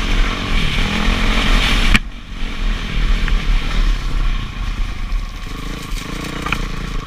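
Dirt bike engine running under wind noise, loud at first; about two seconds in the sound changes abruptly to a quieter engine running.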